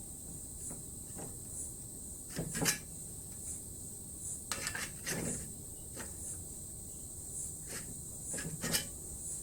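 Sheet-steel repair section being set in a bench vise for folding: a few scattered metal clanks and knocks, the loudest about two and a half seconds in and near the end.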